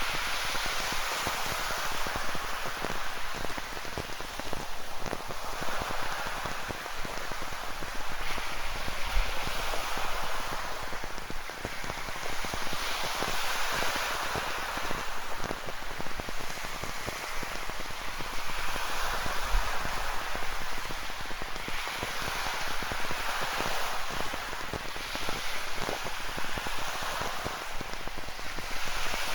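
Steady rain falling, with ocean surf surging and easing in swells every few seconds.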